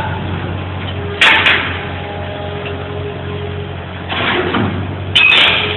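Bobcat skid-steer engine running steadily, with two loud bangs, one about a second in and one near the end, and a shorter rough clatter at about four seconds.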